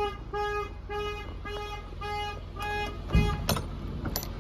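A truck's reversing alarm beeping about twice a second over the steady rumble of the idling diesel delivery truck; the beeping stops about three seconds in, followed by a couple of loud knocks.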